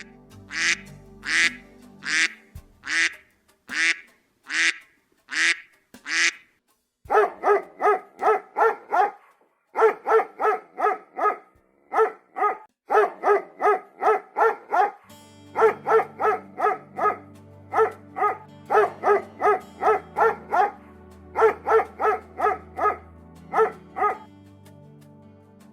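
A series of animal calls over background music. First come about eight separate calls, each sweeping up high. Then, from about seven seconds in, there are rapid runs of short calls, several a second, in repeated groups.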